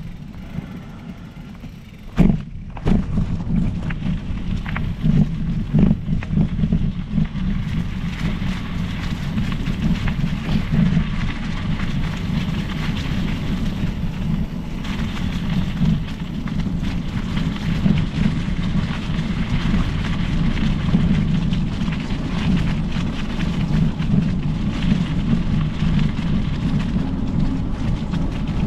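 Specialized Epic Pro mountain bike being ridden on a trail: steady rolling tyre noise with wind buffeting the microphone. A sharp knock comes about two seconds in, after which the rumbling noise stays louder.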